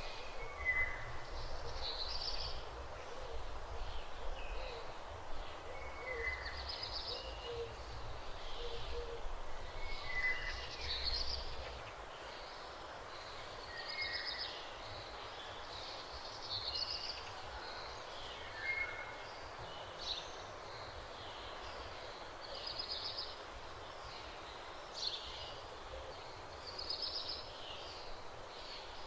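Countryside birds singing, short high calls repeating every second or two, over a low rumble that fades out partway through.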